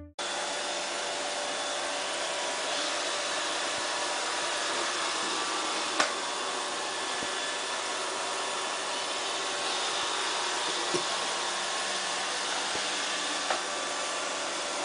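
Roomba robot vacuum running with a steady whirring drone, with one sharp click about six seconds in.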